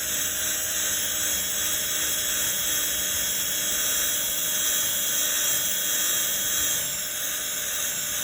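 Electric drill spinning a foam polishing pad against car hood paint, running steadily as it buffs a bird-dropping stain out with polishing compound.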